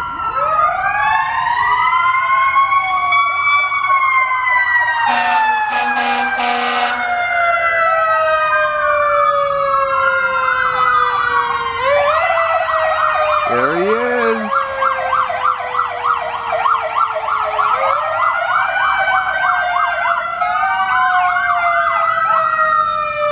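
Several fire truck sirens wailing at once, their rising and falling tones overlapping. Past the middle they switch to a fast yelp for several seconds. A few short blasts come about five to seven seconds in.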